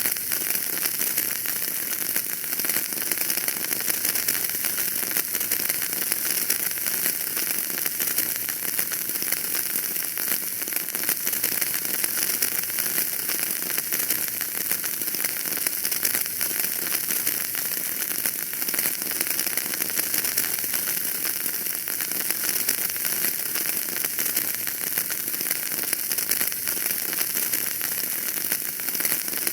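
Wood fire burning in a fireplace, crackling steadily: a continuous hiss of many small pops and crackles with no single loud snap.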